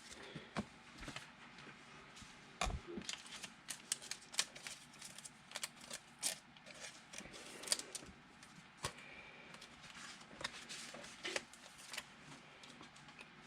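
Faint, irregular clicks and light rustles of football trading cards being flipped through and sorted by hand.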